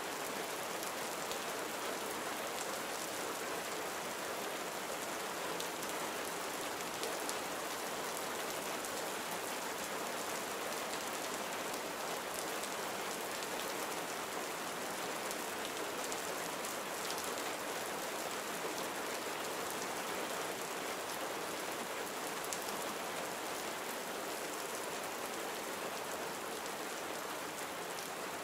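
Gentle steady rain falling on a surface, an even hiss with fine patter of drops.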